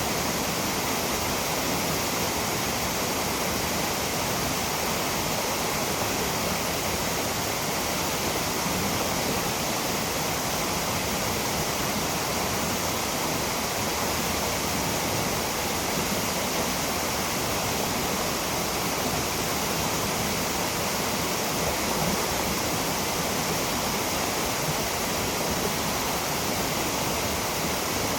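Aotaki Falls, a waterfall, pouring steadily: an even, unbroken rush of falling water.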